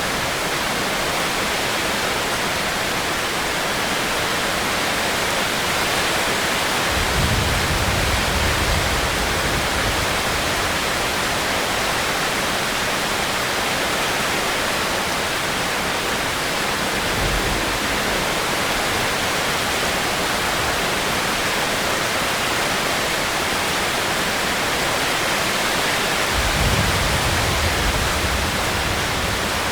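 Steady rain falling, a dense even hiss. Three times a low rumble swells up and fades: about a quarter of the way in, just past halfway, and near the end.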